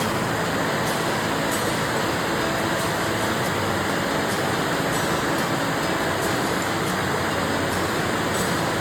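Steady rain falling, an even hiss that holds constant without a break.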